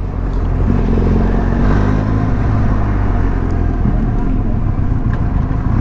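Benelli TRK 502X parallel-twin motorcycle engine running under way, with wind rushing past; the engine note picks up slightly about a second in.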